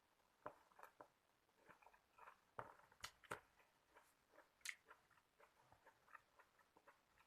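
Faint, scattered eating sounds: chewing with small clicks and crackles as a person eats shrimp with vegetables, with a few sharper clicks about three and nearly five seconds in.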